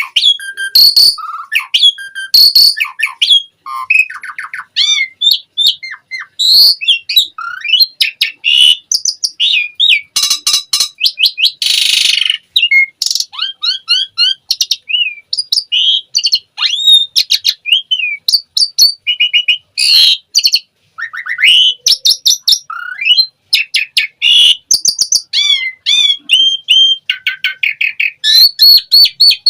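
Asian pied starling (jalak suren) singing a fast, varied song of chirps, whistles and rising and falling notes, with a harsh rasping note about ten to twelve seconds in.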